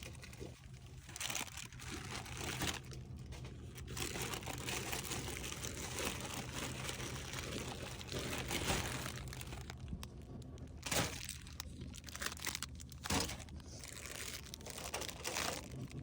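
Plastic snack bags crinkling and rustling irregularly as they are handled and loaded, with scattered small clicks and knocks.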